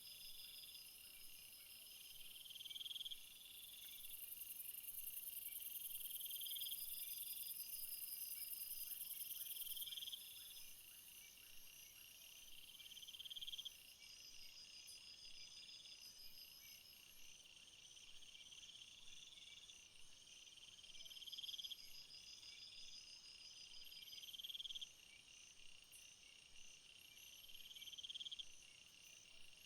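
Faint chorus of crickets and other field insects trilling. A high trill swells and breaks off about every three seconds over a steady pulsing chirp, with a thin, very high buzz that is strongest for several seconds near the start.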